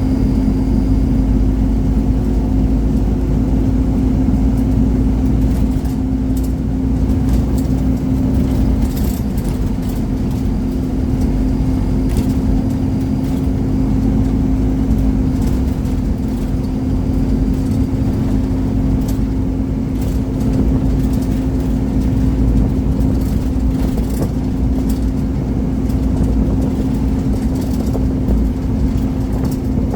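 Scania Omnicity single-deck bus's 230 hp engine and road noise heard from inside the cabin while it is under way: a steady drone with a constant low hum, broken now and then by short rattles.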